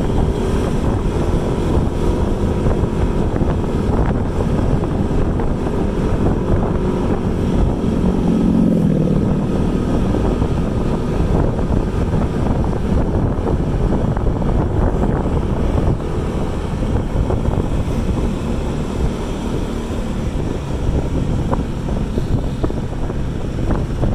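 Steady vehicle running noise with wind buffeting the microphone.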